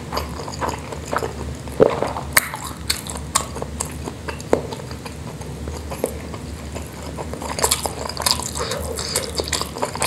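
Close-miked eating sounds: a person chewing a mouthful of rice and spicy Indonesian meatballs, a steady run of short wet mouth clicks, with a couple of louder clicks about two seconds in.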